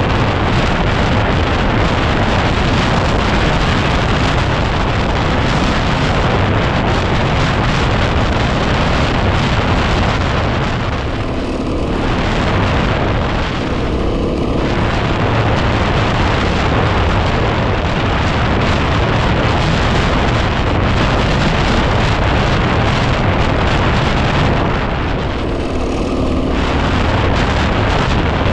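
Heavy wind buffeting on the microphone of a moving Yamaha WR250R dual-sport motorcycle, a loud, steady rumble that mostly drowns out the bike's 250 cc single-cylinder engine. The engine's note shows through briefly where the wind eases, about 11 seconds in, again about 14 seconds in, and near the end.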